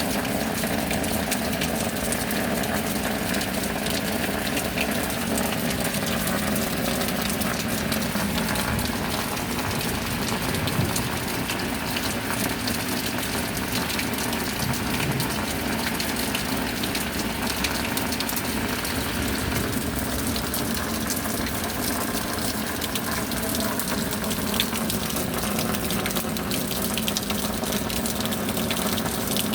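Steady rain: a constant rush of falling water made of many small drop impacts, holding one even level throughout.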